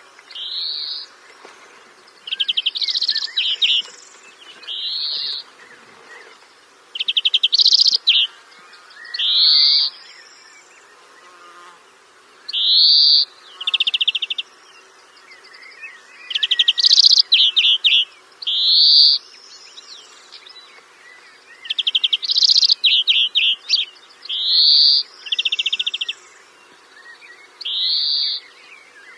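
A bird calling over and over, a call about every one to two seconds: short high rising notes alternating with brief buzzy rattles.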